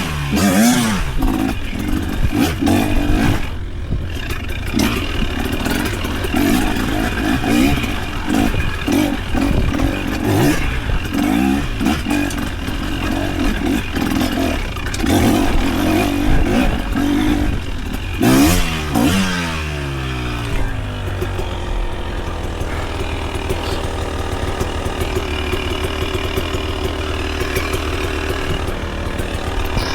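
Off-road vehicle engine revving up and down as it is ridden over the trail. About 18 seconds in the revs fall away, and it settles into a steady idle.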